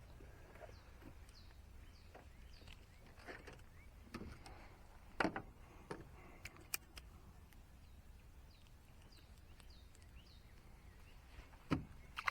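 Quiet riverside ambience: a bird calling with short falling chirps repeated a few times a second. A few sharp knocks and clicks sound in the boat, the loudest about five seconds in and another near the end.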